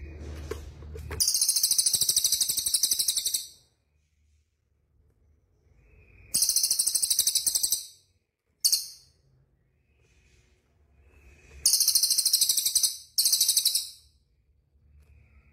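Small songbird singing rapid, very high-pitched buzzing trills, in several bursts of one to two and a half seconds separated by short pauses.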